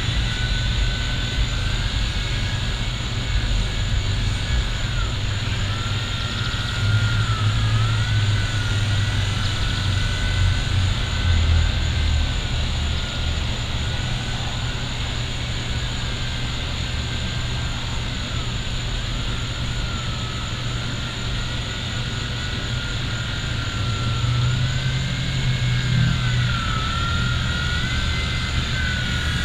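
V911 micro RC helicopter's electric motor and rotor whining in flight, the pitch dipping and climbing back several times as the throttle changes, over a low rumble.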